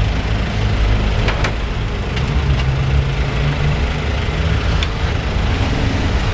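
Hyundai Tucson's engine running at idle as the car creeps back and forth in a tight parallel parking manoeuvre, a steady low rumble with a few faint clicks.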